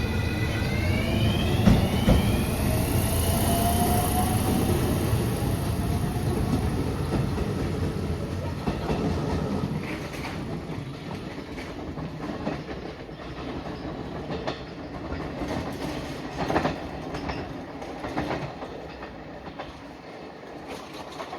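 Electric train pulling away, its traction-motor whine rising in pitch for the first few seconds as it accelerates. The rumble then fades as it leaves, with wheels clacking over rail joints.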